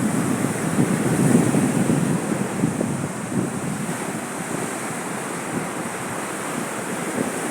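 Sea waves washing onto a sandy beach, with wind buffeting the microphone; the surf is loudest about a second or two in.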